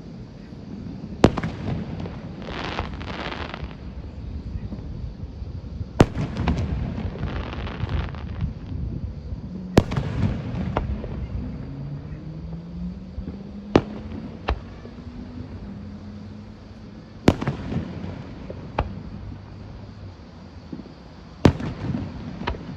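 Aerial firework shells bursting: about seven sharp bangs a few seconds apart, some followed by a second or two of crackling.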